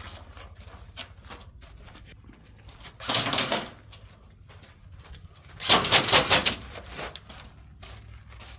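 Airsoft rifle firing two short bursts of rapid shots, the second a little longer, about two and a half seconds apart. Faint scattered ticks between them.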